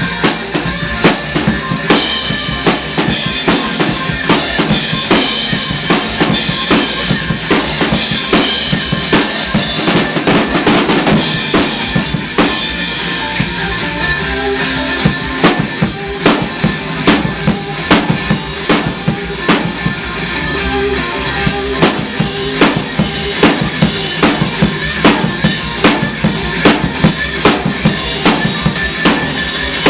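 Rock music led by a drum kit: a fast, steady run of bass drum and snare hits with cymbals, over sustained guitar tones.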